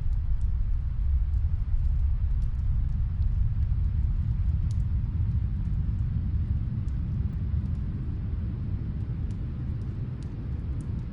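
Snowstorm wind making a steady low rumble, with faint, scattered crackles of a wood fire in the fireplace.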